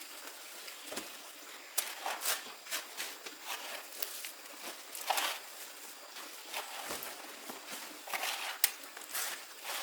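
Irregular scraping and scuffing of hand tools working soil, mortar and brick, a few strokes a second, with a sharper knock near the end.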